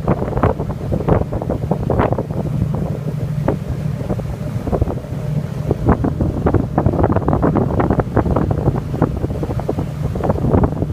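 Wind buffeting the microphone in irregular gusts over the steady low drone of the ferry's engine.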